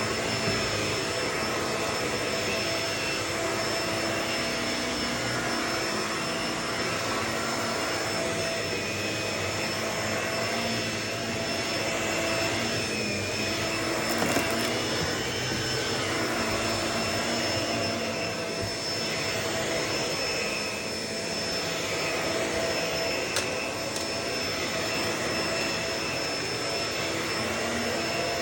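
Vacuum cleaner running steadily with a constant motor whine, its sound swelling and dipping every couple of seconds as it is pushed back and forth. A few sharp ticks near the middle and later on, as crunchy debris is sucked up.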